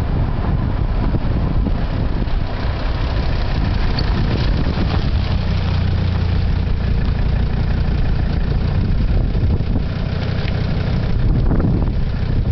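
Straight-piped Mercedes-Benz 300SD diesel engine running steadily through its open exhaust, a deep, even note with no revving.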